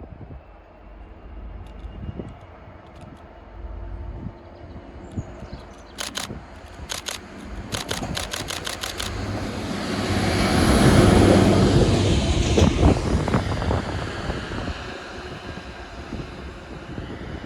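A rapid run of camera shutter clicks, then a train passing: a rumble that builds to its loudest about two-thirds of the way through and slowly fades.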